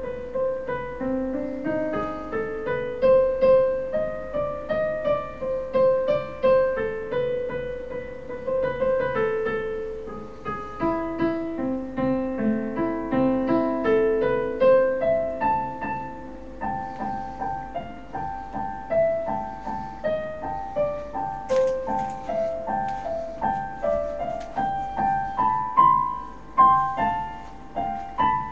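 Recorded piano tune playing back: a flowing melody of single notes over lower held notes.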